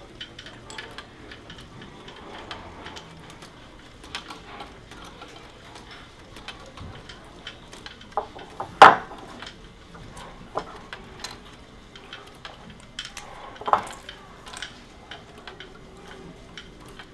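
Plastic Lego bricks clicking and clattering as pieces are handled and fitted together. There is a loud sharp clack about halfway through and another a few seconds later.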